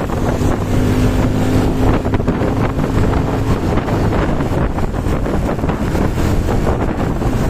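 Strong wind buffeting the microphone over the steady drone of a running engine; a low hum fades out about three and a half seconds in.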